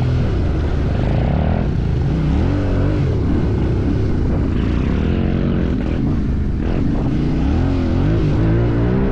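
Motorcycle engine running under changing throttle, its pitch rising and falling again and again.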